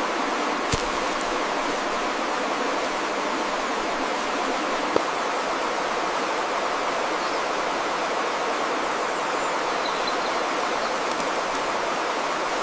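Steady rushing of running water, like a stream, with a short sharp click about five seconds in.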